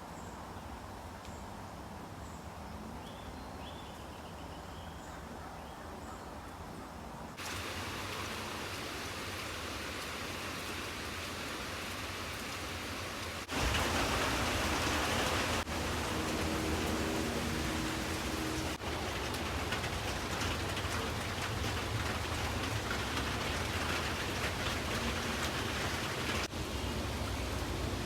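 Steady rain falling, an even hiss of drops. It gets abruptly louder about seven seconds in and again about halfway through.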